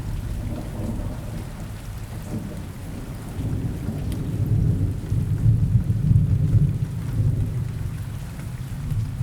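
Steady rain falling, with a low rumble of distant thunder that swells around the middle and then fades.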